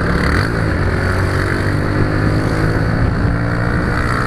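A vehicle engine running steadily at speed, its pitch slowly dropping, with constant road and wind noise.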